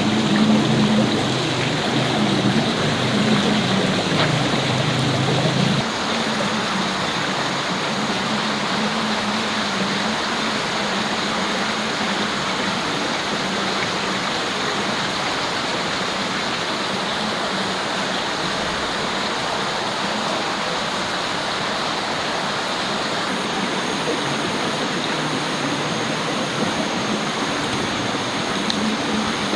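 Steady rushing noise like running water, with a low hum underneath that stops suddenly about six seconds in; a faint, thin high-pitched tone comes in near the end.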